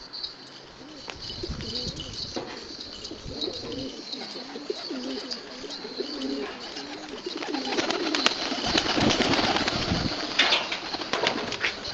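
Domestic Shami (Damascene) pigeons cooing repeatedly, with a louder noisy burst from about eight to ten seconds in.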